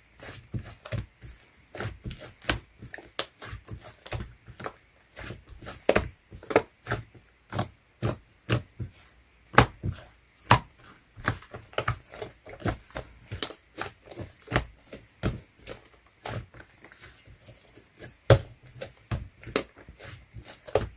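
Slime being pressed, poked and stretched by hand, making a quick, irregular run of sticky clicks and pops, several a second.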